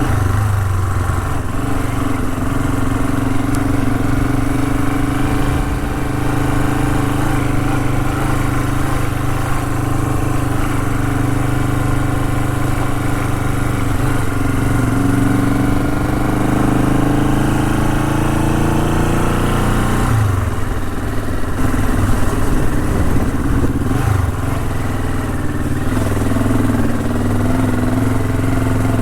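Honda CL450 parallel-twin engine running as the motorcycle rides on, its note slowly rising, then dropping suddenly about twenty seconds in and settling again a few seconds before the end.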